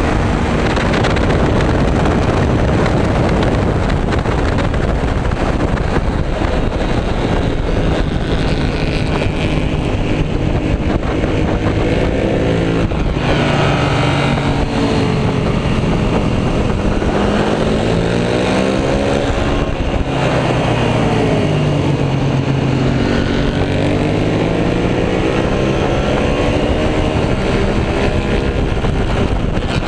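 Suzuki SV650's V-twin engine running hard under race conditions, its revs falling and climbing again as the rider brakes, changes gear and accelerates out of corners, over steady wind rush.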